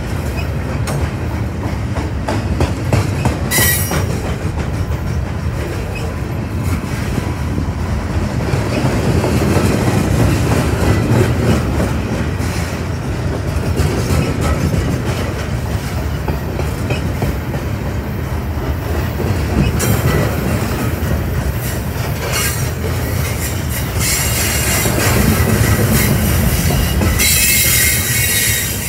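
Loaded freight flatcars rolling past at close range: a steady rumble of steel wheels on rail with clickety-clack over the rail joints. High-pitched wheel squeal comes and goes, briefly about three seconds in and longest for the last few seconds.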